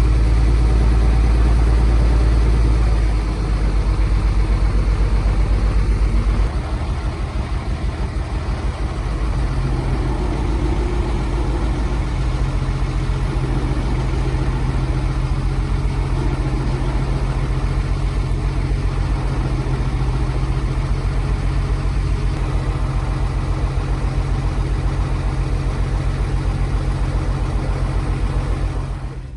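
Rebuilt Dongfeng heavy-duty diesel truck engine running at a steady idle. Its low note shifts and the sound eases slightly about six seconds in, then holds steady.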